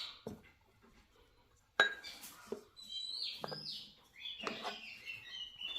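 Tableware clinking during a meal, with one sharp clink about two seconds in, then birds chirping over it in short repeated calls.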